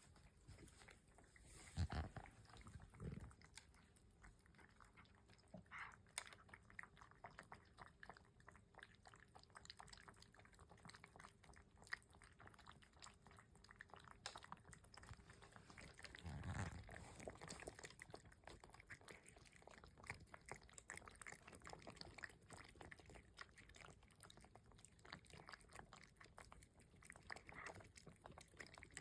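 Cats eating, faint: a steady run of small chewing and crunching clicks, with a few soft low thumps about two and three seconds in and again about halfway through.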